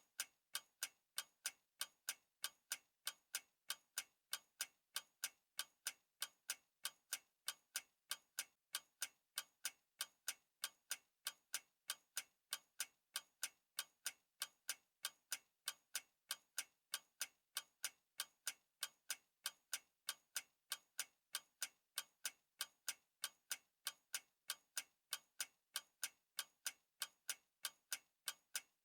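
Clock ticking steadily, a long run of evenly spaced sharp ticks, several a second.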